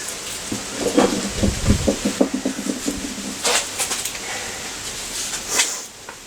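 A run of irregular metal knocks and clunks, including a heavy low thud, as a motorcycle engine is shifted against its frame, then two short hissing scrapes.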